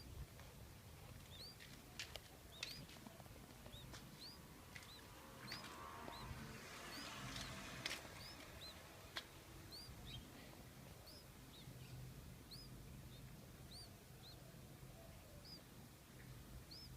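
Nestling birds peeping faintly in the nest: short, high chirps repeated a little more than once a second, begging while the parent is away for food. A few faint clicks and a short rustling hiss come partway through.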